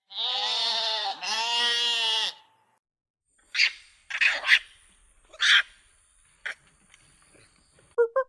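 A goat bleating twice in two long, wavering calls. Three or four short, harsh, noisy calls follow about three and a half seconds in.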